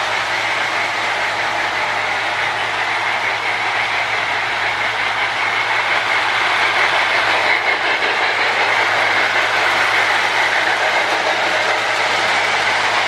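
Marx Sound-O-Power toy train tender making its hissing steam-chugging sound as the train runs on the track, now working after repair. A low steady hum runs underneath.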